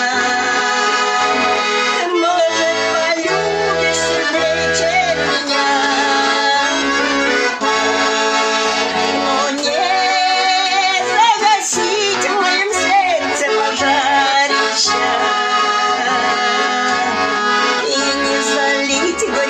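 Garmon (Russian button accordion) playing an instrumental passage of a folk-style song: a melody line on the right hand over a steady, rhythmic bass and chord accompaniment.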